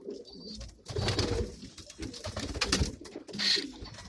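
Several pigeons cooing inside a loft, low throaty calls overlapping, with scattered clicks and rustles.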